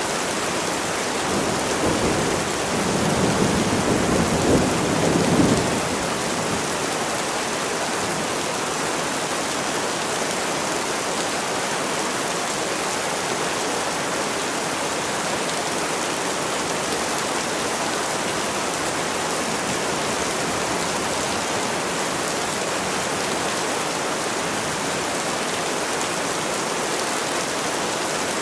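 Steady rain falling, an even hiss throughout, with a low rumble of thunder rolling in and fading about two to six seconds in.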